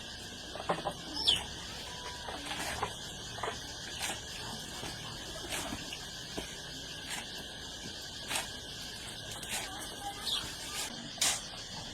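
Outdoor ambience: a few brief bird chirps and scattered light knocks and clicks over a steady high hiss.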